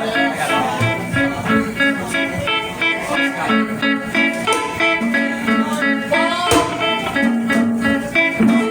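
Guitar music playing, a continuous run of plucked notes.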